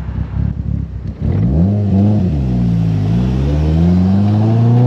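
Turbocharged all-wheel-drive car's engine heard from inside the cabin, accelerating hard: about a second in its pitch climbs, dips once, then rises steadily again under full throttle.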